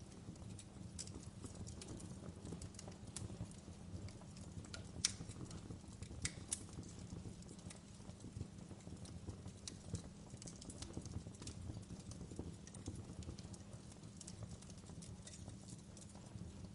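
Wood fire crackling in a fireplace: scattered sharp pops and snaps over a low, steady rumble of the flames. The sharpest pops come about five and six and a half seconds in.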